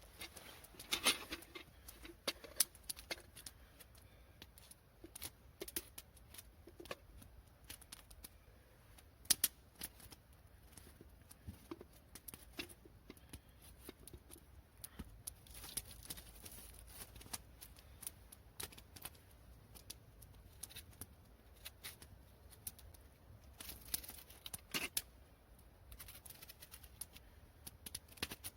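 Irregular light clicks, ticks and crackles, a few at a time with short gaps, over a faint low background hum.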